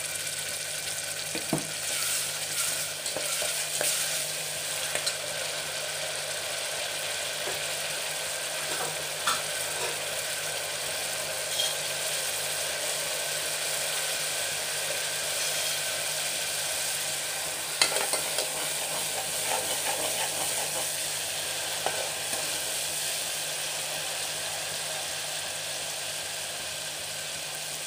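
Ginger-garlic paste frying in hot oil in an aluminium pressure cooker: a steady sizzle, with a few sharp clinks from the slotted metal ladle stirring it against the pot.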